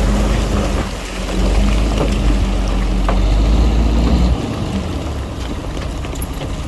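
Diesel engine of heavy earthmoving machinery running under a steady noisy rush, with scattered clanks. The low rumble eases off about four seconds in.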